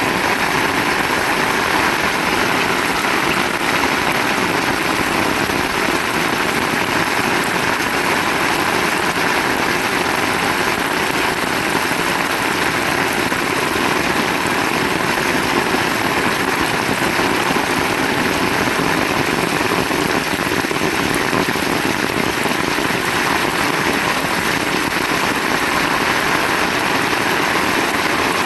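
Heavy rain pouring down steadily, an unbroken dense hiss with no let-up.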